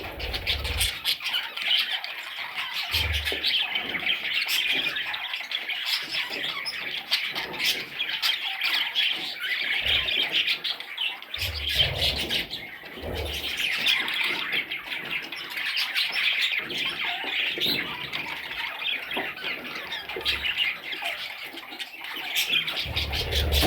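A group of young budgerigars chattering and squawking without a break, a dense stream of short, high calls, with a few low thumps.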